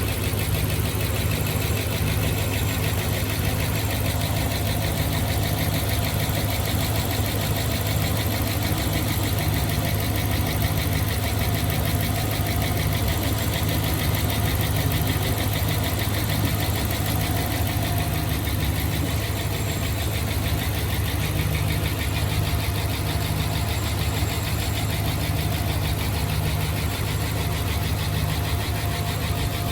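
Dodge Ram Hemi V8 idling steadily while warming up after a lifter repair; it is no longer making the noise of the failed MDS lifter and is starting to sound good.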